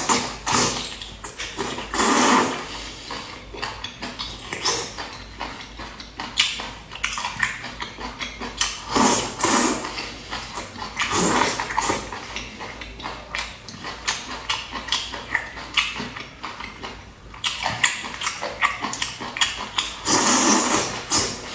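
A person eating a whole octopus close to the microphone: wet chewing, sucking and slurping mouth sounds in uneven bursts, louder at a few moments.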